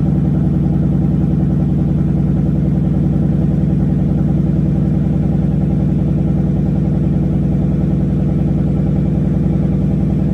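2015 Ford Mustang GT's 5.0-litre V8 idling steadily after a cold start, with no revving.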